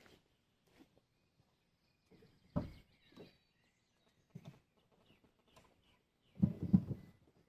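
A few scattered footsteps and knocks, with a louder cluster of thumps about six and a half seconds in, and faint bird chirps in the background.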